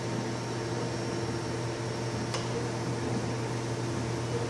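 Steady machine hum with several constant tones over an even hiss, from other equipment running in the lab, with one faint click about halfway through.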